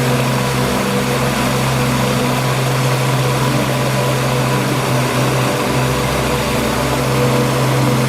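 Steady rushing of a waterfall, a dense even hiss of falling water, over soft ambient music with long sustained tones.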